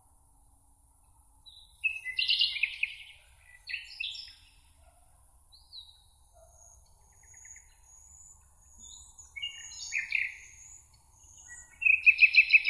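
Several songbirds singing: loud, separate song phrases come a few seconds apart, the last one a rapid trill of repeated notes, with faint thin high notes in between.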